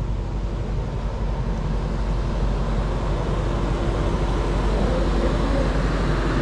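A car engine running close by: a steady low rumble with a rapid pulse that grows a little louder over the second half.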